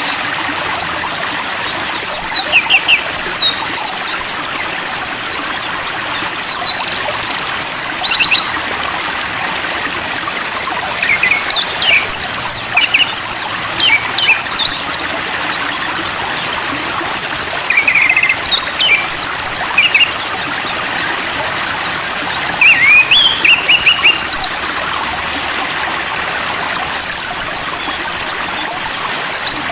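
A songbird sings in bouts of quick whistled notes and swooping up-and-down phrases, a few seconds on and a few seconds off, over a steady hiss like running water.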